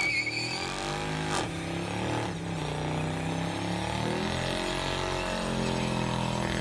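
A vehicle engine running, its pitch drifting slowly up and down, with a short high tone at the start and a single sharp knock about a second and a half in.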